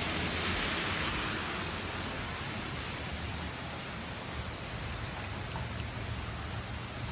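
Steady rain hissing as it falls, a little louder in the first second or so and then easing slightly, with a low steady rumble underneath.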